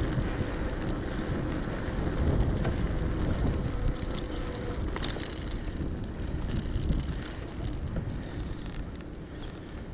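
Wind buffeting an action camera's microphone over the tyre rumble of an electric bike being ridden along a road, with a faint steady tone that fades out about five seconds in.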